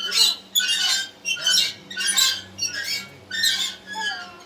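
Birds squawking, a short harsh call about every half second.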